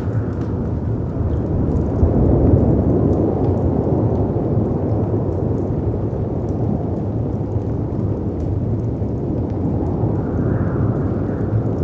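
A layered storm ambience: a steady low roar of wind and sea surf that swells a couple of seconds in, with a few faint fireplace crackles above it.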